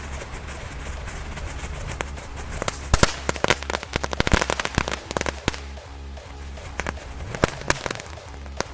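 Small category 1 consumer fireworks crackling and popping in a rapid, irregular series that starts about two seconds in, is densest for the next couple of seconds and then thins out to scattered pops. Background music with a steady bass beat plays throughout.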